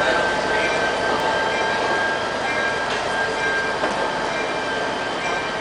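Train running on rails, a steady noisy rumble of the cars with a thin high whine held throughout.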